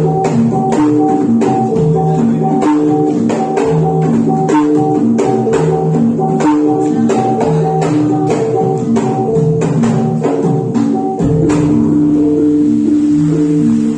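Javanese gamelan music for jathilan dance: metallophones play a steady repeating melody over fast, sharp percussion strokes. About eleven seconds in, the percussion strokes stop and a deep low stroke sounds under the continuing melody.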